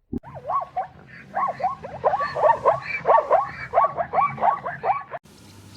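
A rapid series of short animal calls, each swooping up and down in pitch, several a second, that stops abruptly about five seconds in, leaving a quieter steady background.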